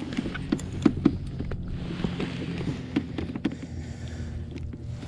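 Scattered light knocks and clicks of handling gear aboard a fishing kayak, over a steady low hum.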